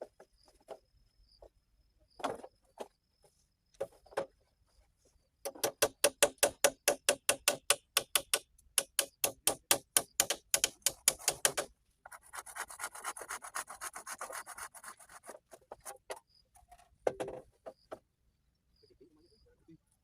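Hand saw cutting wood: a run of rapid, even strokes, about five a second, from about five seconds in, turning near the middle into a denser rasping for a few seconds, with a few single knocks before and after.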